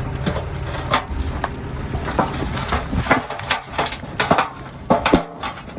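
Backhoe engine rumbling low, with many sharp cracks and knocks over it. About three seconds in the rumble drops away, and the cracks and knocks go on.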